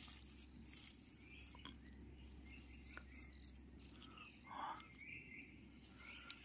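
Quiet forest ambience: faint rustling and small clicks from leaf litter being disturbed, with faint bird or insect chirps.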